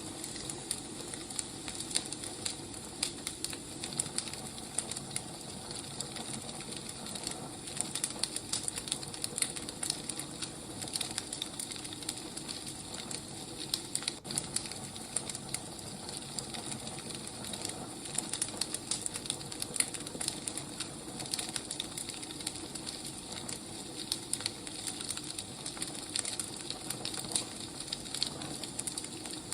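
Wood fire crackling: irregular pops and snaps over a soft steady hiss.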